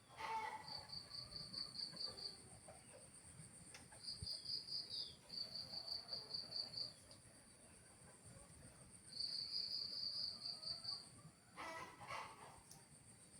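Crickets chirping: trains of quick, high-pitched pulses that start and stop every second or two, over a continuous, even higher insect trill. A short, louder rustle-like sound comes in near the end.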